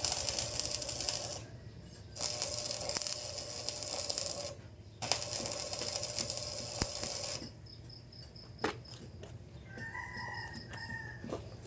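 Three bursts of dense, rapid metallic clicking and rasping from hand-tool work on metal, the longest about two and a half seconds. Near the end a rooster crows briefly.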